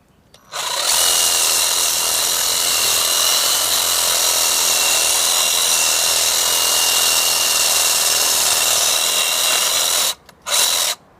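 Ryobi cordless reciprocating saw cutting through a starfruit tree branch, running steadily for about nine seconds. It stops briefly, then gives one short final burst near the end.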